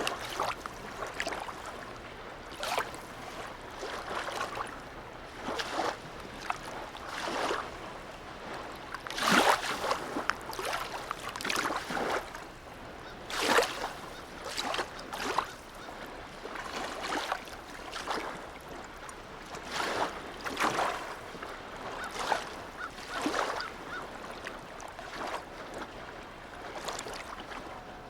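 Small harbour waves lapping and splashing against the water's edge, in irregular slaps every second or two over a steady wash of water. A faint steady low hum runs underneath.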